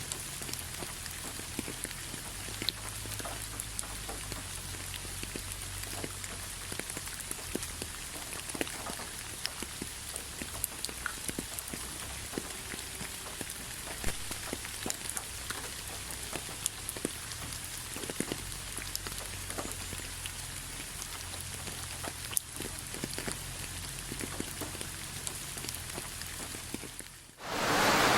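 Steady rain with many scattered drops tapping on a surface. About a second before the end, it dips briefly and gives way to a louder, even rushing hiss.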